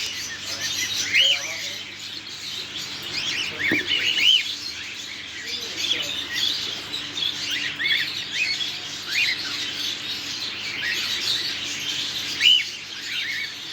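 Many caged pet birds chirping and chattering together: a dense stream of short calls that rise and fall in pitch and overlap one another.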